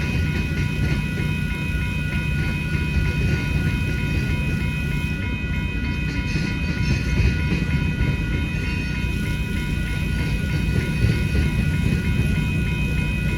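Freight cars of a long manifest train rolling through a grade crossing, a steady rumble with wheel clatter, while the crossing bell rings on in a fast, steady repeat.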